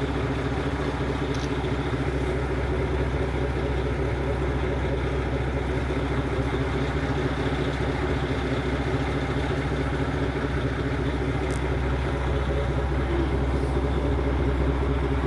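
KiHa 40 diesel railcar's engine idling steadily, a constant low hum with an even drone above it.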